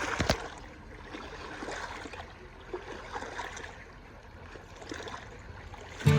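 Water lapping and trickling around a boat, with a sharp splash or knock in the first half-second. Music starts abruptly at the very end.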